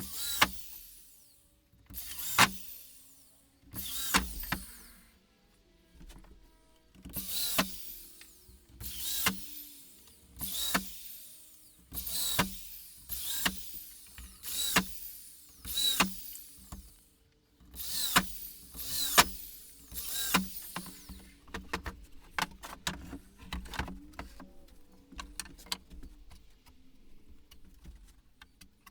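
Power drill run in short bursts, each trigger pull starting sharply and dying away within a second, about every second and a half to two seconds; after about twenty seconds the bursts give way to fainter quick clicks.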